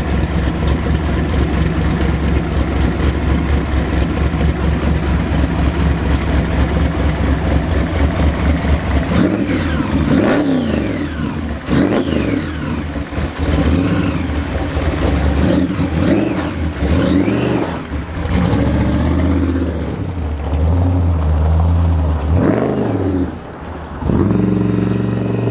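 Hot rod engine idling with a fast, steady pulse, then revved up and down repeatedly from about nine seconds in.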